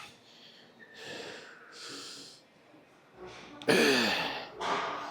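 A man breathing hard with forceful exhalations while pressing a chest press machine, then a loud groan falling in pitch a little under four seconds in, followed by another sharp breath.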